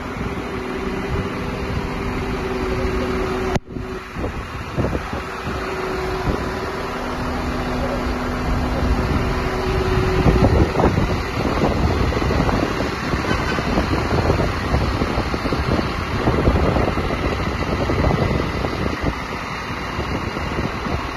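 Truck-mounted concrete pump running on its diesel engine: steady machine noise with a faint hum, breaking off briefly a few seconds in, then growing louder and more uneven from about halfway through.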